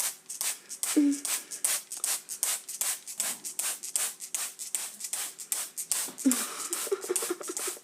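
Hand-pumped spray bottle misting water, a rapid, even run of short hissing squirts about four a second. A few short low pitched sounds come about a second in and again near the end.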